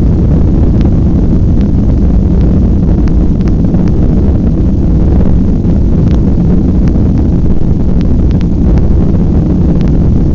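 Jet airliner heard from inside the cabin during takeoff: the engines at takeoff power give a loud, steady, low rumble, with scattered small clicks from the cabin.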